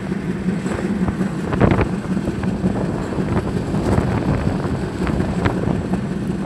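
Express passenger train running at speed, heard from inside a coach: a steady rumble of wheels on rail with a low hum, irregular sharp clacks from the wheels, and wind buffeting the microphone.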